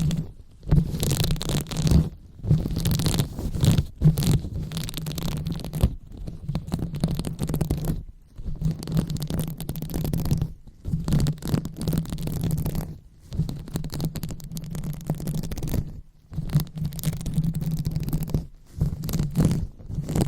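ASMR brain-massage sounds: a microphone rubbed and scratched close up, with a muffled, rumbling texture. It comes in strokes of one to a few seconds, broken by short pauses about every two seconds.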